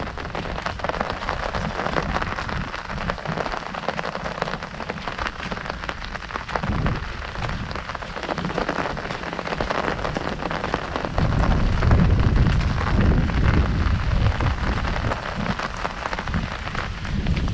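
Heavy rain pattering densely on an umbrella canopy. A low rumble joins in from about eleven seconds in and lasts several seconds, the loudest part.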